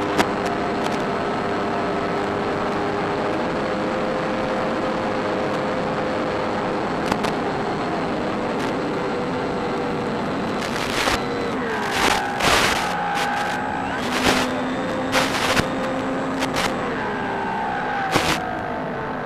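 Electric motor and propeller of an RC model Bf 109 running under a steady rush of wind noise, its whine shifting up and down in pitch with throttle in the second half. Several loud blasts of wind noise or crackle hit between about 11 and 18 seconds in.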